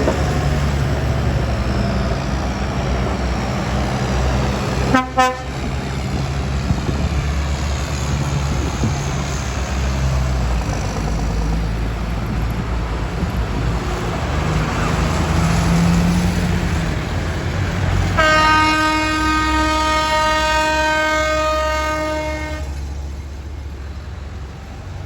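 Vintage tractor engines running with a steady low rumble, a sharp click about five seconds in, and a vehicle horn blown once as one steady note for about four seconds near the end.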